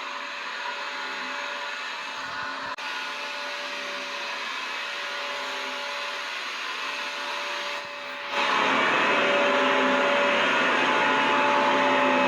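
Vacuum cleaner motor running steadily, a hiss with a steady whine. It is quieter and thinner for the first eight seconds, then louder and fuller from about eight seconds in.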